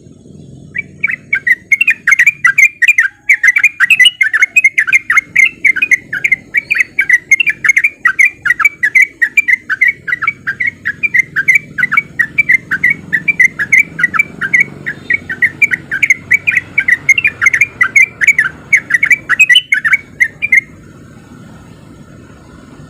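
Yellow-vented bulbul (trucukan) singing a long, unbroken run of quick chattering notes, about three a second. The song stops suddenly near the end, leaving a faint low background noise.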